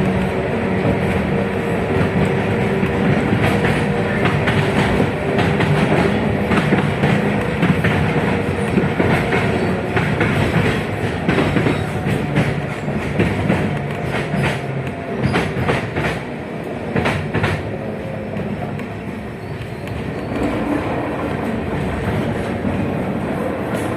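Inside a 71-619KT tram car running along the track: a steady rumble with the wheels clicking and clattering over rail joints, heaviest about halfway through. A steady electric whine from the drive is heard in the first few seconds, then fades.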